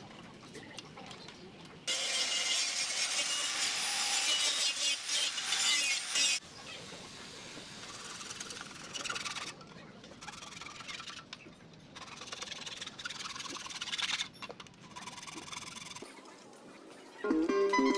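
Hand-tool work on a headlamp, heard as a rasping, scraping noise in bursts: one long stretch of about four seconds a couple of seconds in, then several shorter bursts.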